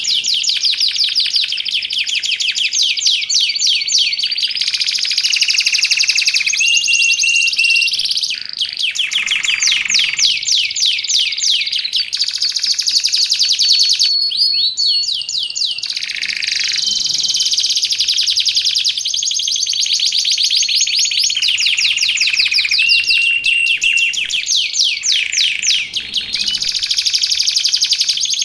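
Domestic canary singing continuously: long runs of very fast, high-pitched trills and rolls, with short breaks about eight and fourteen seconds in.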